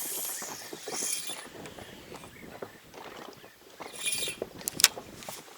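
Spinning reel being wound in after a cast: a run of soft ticks and rattles, with a few sharper clicks near the end.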